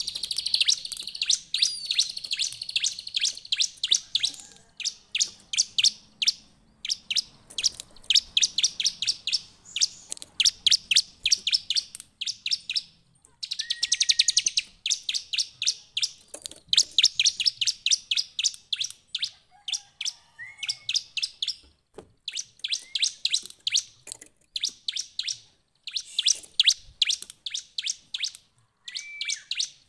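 Bar-winged prinia (ciblek) singing in full voice: rapid trains of sharp, high chipping notes in bursts of a second or two with short pauses between, and now and then a brief lower rising note.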